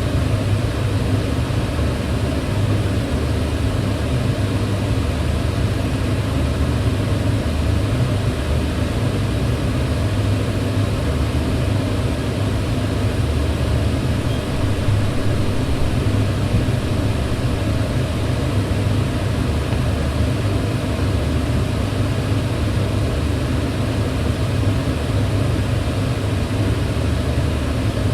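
Kitchen range hood extractor fan running steadily: an even rush of air over a low hum, unchanging throughout.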